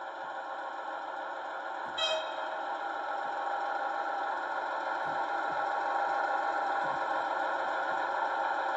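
Digital sound decoder of a Märklin H0 model of the DR class 120 'Taigatrommel' diesel locomotive, playing its diesel engine running sound through the model's small speaker. The sound is steady and grows slowly louder, with a brief short tone about two seconds in.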